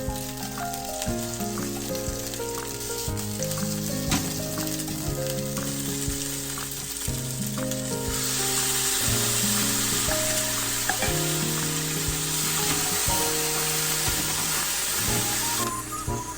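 Food sizzling in a frying pan, growing much louder about halfway through and cutting off sharply near the end, over background music with steady piano-like notes.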